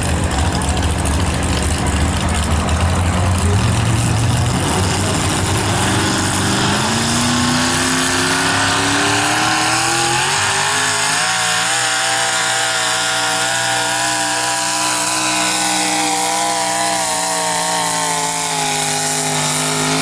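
Pulling truck's engine running hard under load as it drags a weight-transfer sled: a low rumble at first, then the revs climb over about two seconds and hold high and steady, wavering slightly.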